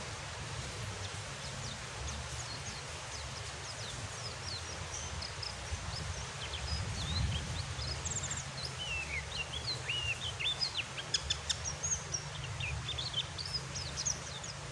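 Steady rain noise with a pleci (white-eye) twittering over it in quick, high chirps that grow busier from about halfway through.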